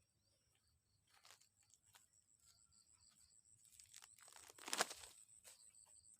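Near silence with a faint, high, pulsing cricket trill, and a short rustling crackle about three-quarters of the way through.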